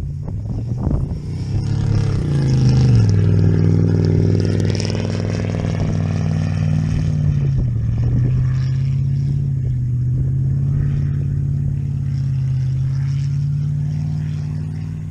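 Dodge Avenger's engine idling after a cold start, its fast idle dropping sharply about two to three seconds in and easing down a little more near the eight-second mark before running steadily.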